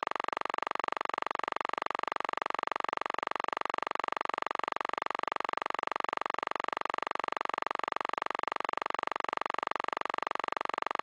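A steady, unchanging buzz that holds the same pitch and loudness throughout.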